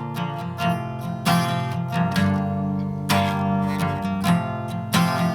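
Acoustic guitar strummed in chords, a steady rhythmic strumming pattern with no singing.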